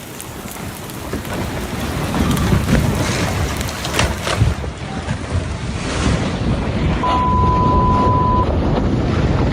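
Rockslide: a mass of rock crashing down, a heavy rumble that builds over the first few seconds with a few sharp knocks, mixed with wind on the microphone. About seven seconds in, a steady beep sounds for over a second.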